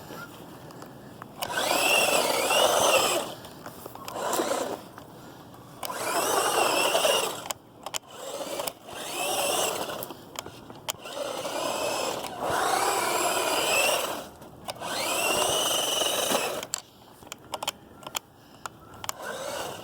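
Hosim S911 RC truck's electric motor whining in about seven throttle bursts, each a second or two long, the pitch rising and falling with each burst, as the truck drives in wet snow. Scattered clicks come between the bursts.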